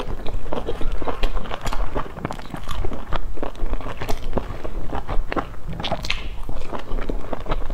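Close-up eating sounds: stuffed buns dipped in chili sauce being bitten and chewed, a dense run of short wet smacks and clicks from the mouth.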